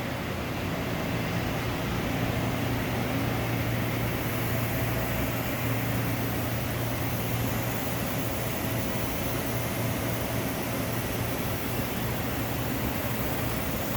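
Steady hum of industrial machinery running, a low electrical-sounding drone under an even hiss, holding the same level throughout.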